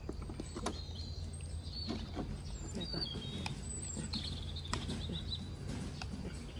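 Birds chirping in short high calls over a steady low hum, with a few sharp soft clicks.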